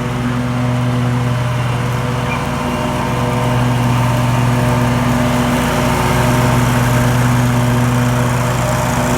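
Lawn mower engine running steadily, an even, constant hum.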